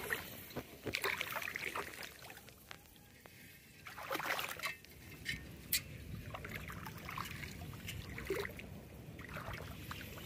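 Water splashing and trickling as a wet gill net is handled and hauled, with irregular splashes and a few sharp knocks.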